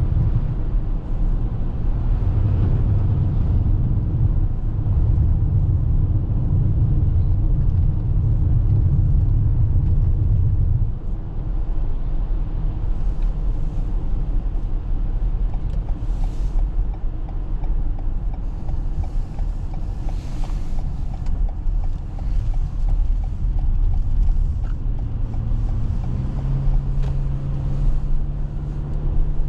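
Steady low rumble of road and tyre noise inside the cabin of a Toyota RAV4 Hybrid driving on snowy roads. A low hum under it fades about a third of the way through and comes back near the end.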